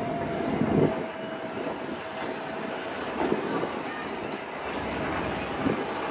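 Loaded iron ore hopper wagons of the Mauritania Railway ore train rolling slowly, with a steady rumble and a thin high wheel squeal that fades out about halfway through. Loud metallic clanks from the wagons come about a second in, just after three seconds and near the end.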